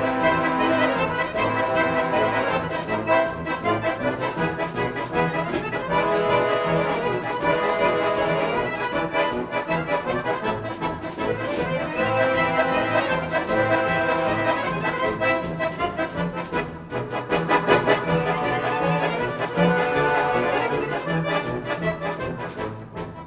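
Accordion orchestra playing in ensemble: layered melody lines over a bass line that moves in a steady beat.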